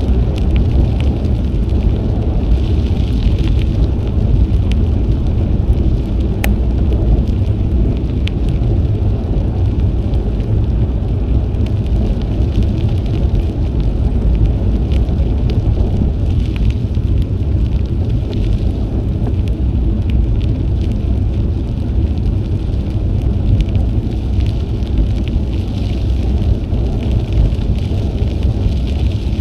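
Steady wind rumble on an action camera's microphone while cycling, with a fine crackle from bicycle tyres rolling over the trail surface.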